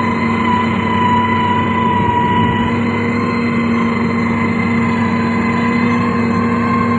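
Heavy diesel road-construction machine, a motor grader or road roller, running steadily with a constant whine over the engine noise.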